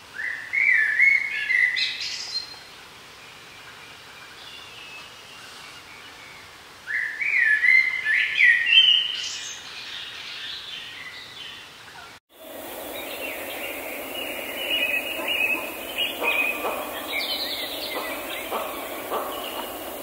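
Forest songbird singing two short phrases of about two seconds each, several seconds apart, over a faint steady hiss. About twelve seconds in the sound cuts abruptly to a busier recording: several birds calling over a louder, steady background noise.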